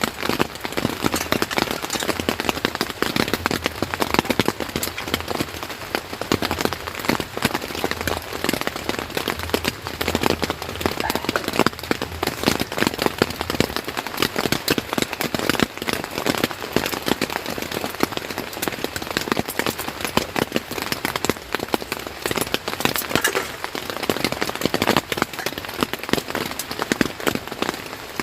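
Rain pattering steadily on a tent, a dense, unbroken patter of drops.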